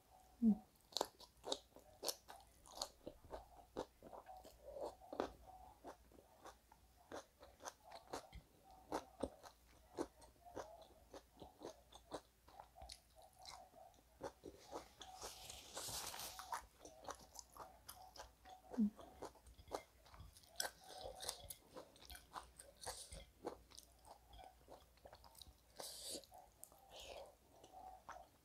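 Close-miked mouth sounds of a person eating rice and duck meat by hand: faint, irregular wet chewing smacks and clicks, with a short hiss about halfway through.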